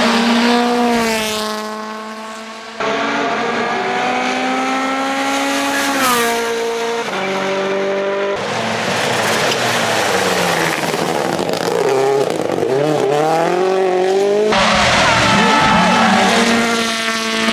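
Rally cars at full throttle on a tarmac stage, their engines revving up and dropping sharply through gearshifts. The sound changes abruptly three times, about three, eight and fourteen seconds in.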